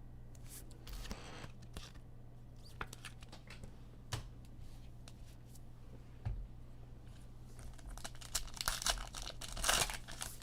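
Foil trading-card pack wrapper being torn open and crinkled, with scattered light clicks of cards being handled; the crinkling is densest near the end.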